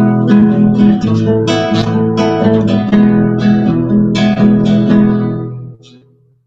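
Guitar strumming chords, which ring out and fade away about six seconds in.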